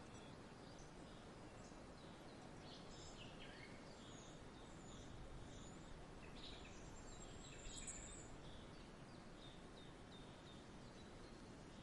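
Faint, scattered chirps of small birds over a steady low background hiss, with one slightly louder high call about eight seconds in.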